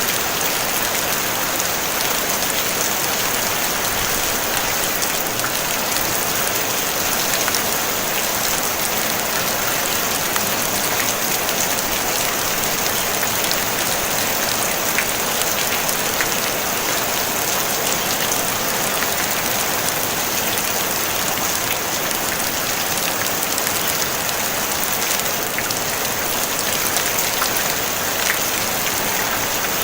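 Steady rain falling on a tin roof: a dense, even patter of many small drops, with no thunder.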